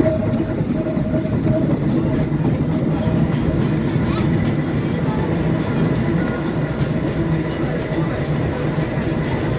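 Subway train running on the rails with a steady low rumble, thin high-pitched wheel squeal joining in from about four seconds in.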